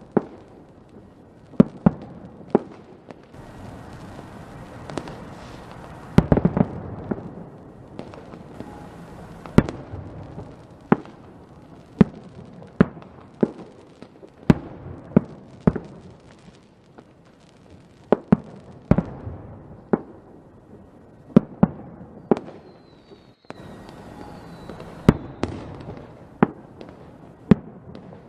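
Fireworks going off in a steady string of sharp bangs, about one or two a second, with crackling between them. A faint rising whistle of a rocket about three quarters of the way through.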